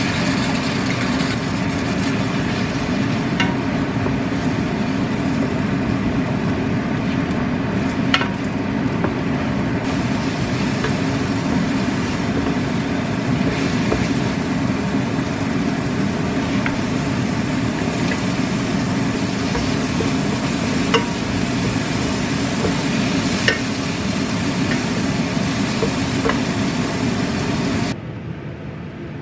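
Tomato and beaten egg sizzling as they fry in a nonstick pan, with a wooden spatula scraping and tapping the pan now and then. The sizzle stops abruptly near the end.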